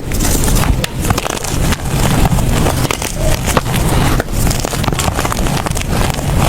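Blocks of gym chalk being crushed and crumbled by hand: a loud, dense crunching made of many small cracks.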